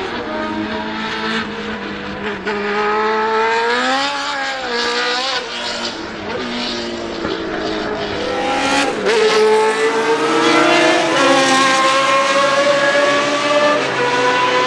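Historic Formula 1 race car engine running hard, its revs climbing and dropping sharply at gear changes about four, five and nine seconds in. After that it pulls up steadily and grows louder.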